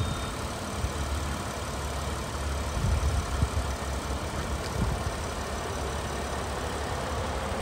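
Car engine idling steadily, heard from over the open engine bay.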